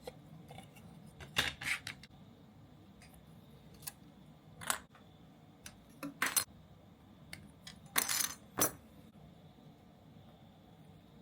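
Small hard model-kit parts and tools clicking and clinking as they are handled and set down, in short clusters about a second and a half, four and a half, six and eight seconds in.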